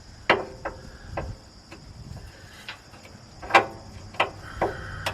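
Irregular sharp metallic clicks and knocks of a socket ratchet and other hand tools working on the starter bolts under a pickup truck, about nine in five seconds, the loudest about three and a half seconds in.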